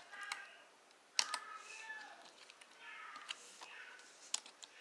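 A few faint clicks and taps, like typing on a keyboard, with the sharpest about a second in, over faint background voices.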